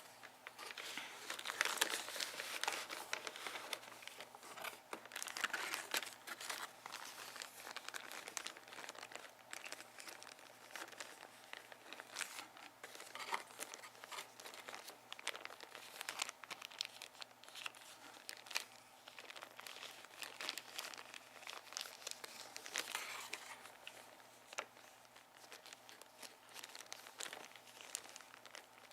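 Crinkly packaging being crumpled and handled by hand, a steady run of crackles with louder bursts every few seconds.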